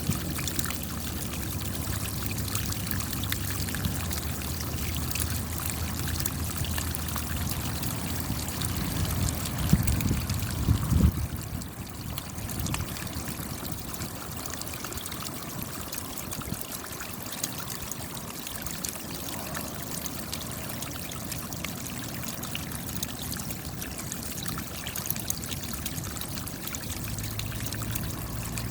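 Steady rain, a dense hiss of many individual drops falling, with water running. About ten seconds in comes a brief louder, deeper surge, after which the rain is a little quieter.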